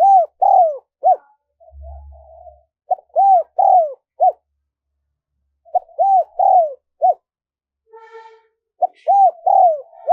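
Spotted dove cooing: four phrases, about three seconds apart, each a short note, two longer arching coos and a short closing note. Fainter rough calls sound between the phrases.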